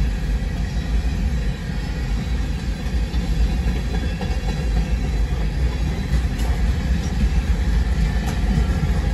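Freight train of open-top cars rolling past: a steady low rumble of steel wheels on rail, with short wheel clicks over the rail joints coming through in the last few seconds.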